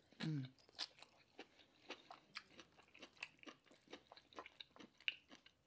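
Close-miked chewing of a mouthful of asparagus: scattered small crunches and wet mouth clicks. A brief falling 'mm' hum comes just after the start.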